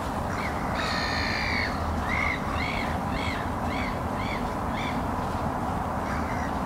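A bird calling: one longer harsh call, then a run of about six short, evenly spaced calls, roughly two a second, over a steady low rumble of background noise.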